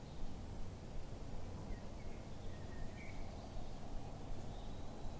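Outdoor ambience: a steady low rumble with a few faint bird chirps about two to three seconds in.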